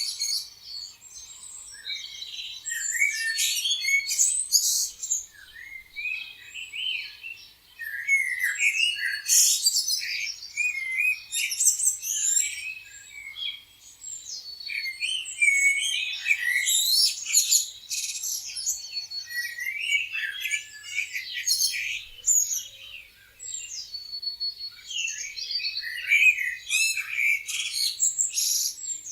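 A chorus of many birds chirping and singing at once: overlapping high, short calls, quick pitch glides and rapid trills that swell and ebb.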